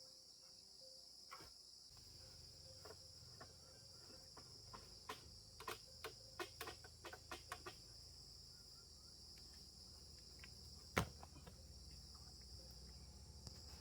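Steady high-pitched insect chorus, crickets or cicadas, with a quick run of light knocks in the middle and one sharper knock near the end.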